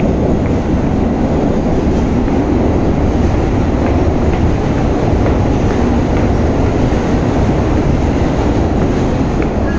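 New York City Subway 7 train running on the track: a loud, steady rumble of wheels and car body with a few faint clicks.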